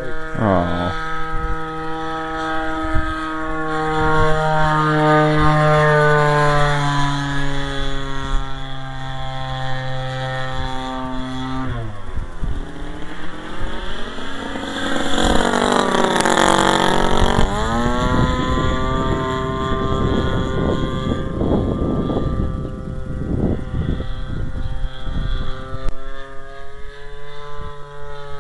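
Small two-stroke gasoline engine of a giant RC airplane, a converted Homelite 30cc string-trimmer engine, running at high revs in flight. Its pitch shifts as it maneuvers, with a fast fly-past about halfway through where the pitch rises then drops. In the second half, wind buffets the microphone.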